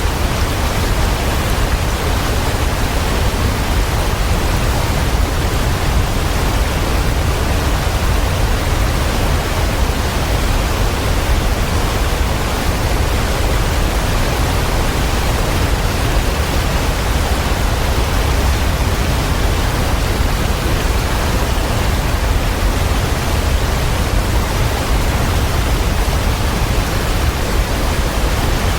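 Waterfall: a steady, unbroken rush of falling water, with a deep low rumble under the hiss.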